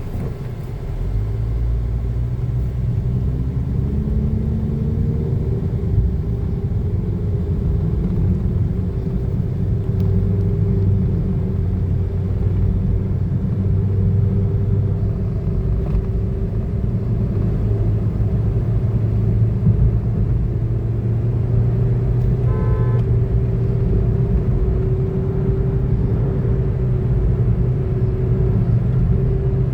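2012 Toyota Fielder accelerating: the engine note rises over the first few seconds, then settles into a steady drone over a heavy rumble of road noise. A brief beep-like tone sounds about three-quarters of the way through.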